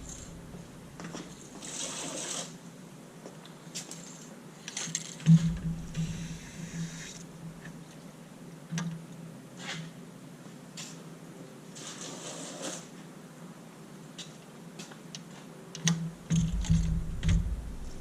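Coolant being drawn out of a Mazda MX-5's coolant expansion tank with a fluid extractor: irregular short bursts of hiss with scattered clicks. There are low handling bumps about five seconds in and again near the end.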